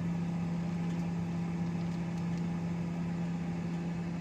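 Microwave oven running with a steady low hum, with a few faint ticks over it.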